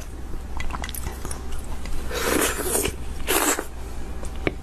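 Close-up eating sounds: a person biting and chewing, with scattered short mouth clicks and two longer, noisier bursts of mouth sound about two and three seconds in.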